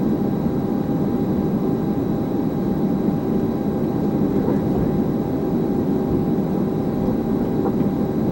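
Steady running noise of an Airbus A320 during taxi, heard from the flight deck: an even rush with a few faint steady tones above it and no change throughout.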